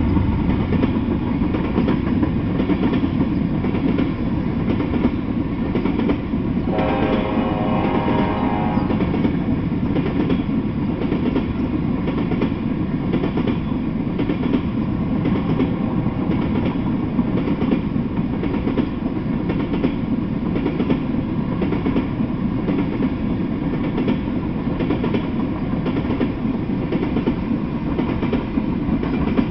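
Freight train of tank cars rolling past at steady speed: a continuous rumble of wheels on rails with regular clicks over the rail joints. A brief pitched tone sounds for about two seconds, about seven seconds in.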